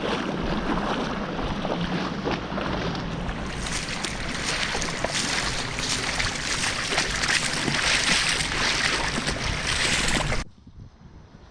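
Fast-flowing river water rushing steadily. It cuts off suddenly near the end, leaving much quieter surroundings.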